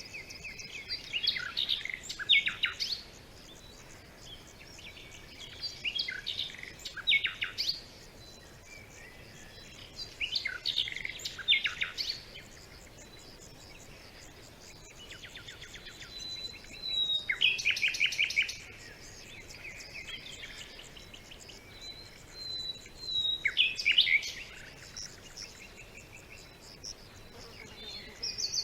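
Songbirds singing in short phrases of quick chirps, downward sweeps and trills, about every four seconds. A faint steady hiss runs underneath.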